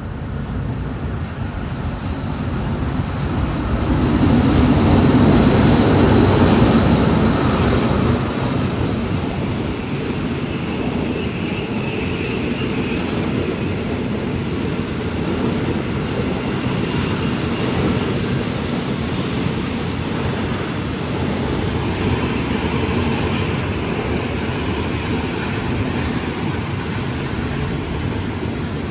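Train rumbling along the station tracks, loudest about five to seven seconds in, then a steady rolling rumble, with a faint high squeal early on.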